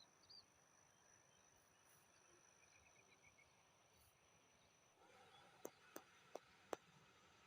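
Quiet outdoor ambience: a steady high insect drone with a few faint chirps and a short rapid trill. Near the end come four sharp clicks in quick succession.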